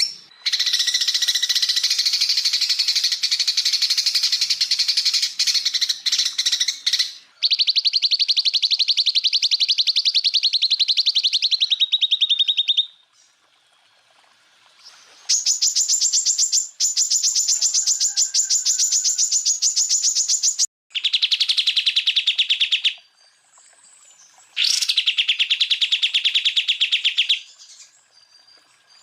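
Greater green leafbird (cucak ijo) singing 'tembakan' phrases: long, very fast trills of rapidly repeated notes lasting several seconds each, some pitched high and some lower, one dropping in pitch as it ends. The trills come in bouts with short pauses between them.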